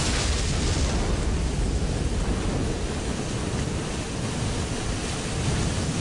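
Steady rushing noise, heaviest in the low end, with no speech or music.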